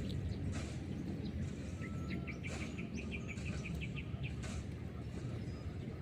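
A bird gives a quick run of short chirps, about five a second, for a couple of seconds in the middle. Under it runs a steady low background rumble.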